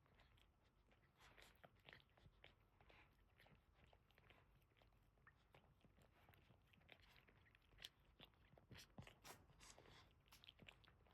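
Faint, irregular wet clicks and smacks of a Boston terrier mother licking her newborn puppies clean.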